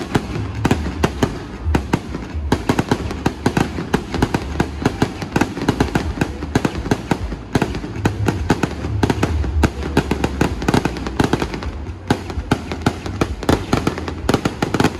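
Aerial fireworks show going off in a dense, nonstop barrage of rapid bangs and crackles, with a low rumble underneath.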